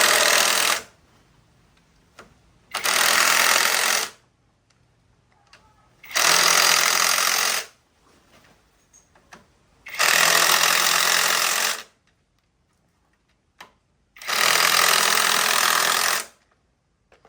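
A power tool run in five short bursts of one to two seconds each, about every four seconds, with near silence between them.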